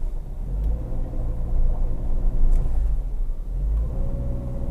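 2016 Subaru Forester's 2.5-litre boxer four-cylinder running under light throttle as the car creeps up a steep gravel slope in the CVT's low gearing, a steady low rumble. A thin steady higher tone joins about four seconds in.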